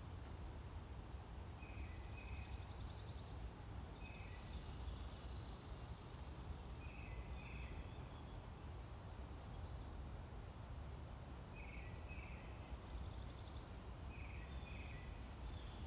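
Songbirds singing in woodland: a short whistled phrase of two or three notes repeated every few seconds, with a couple of brief fast trills. A high buzz comes in for about two seconds a third of the way through, over a steady low background rumble.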